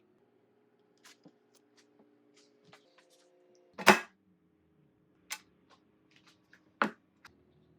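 Kitchen preparation handling sounds: a scatter of light clicks and taps, with a loud knock about four seconds in and two more knocks later. Faint steady tones run underneath.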